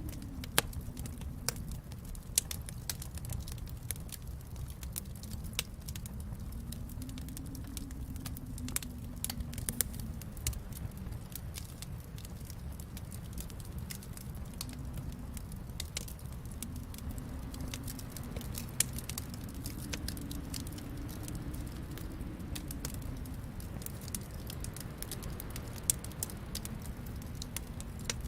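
Wood fire crackling in a fireplace: irregular sharp pops and snaps, several louder ones standing out, over a steady low rumble.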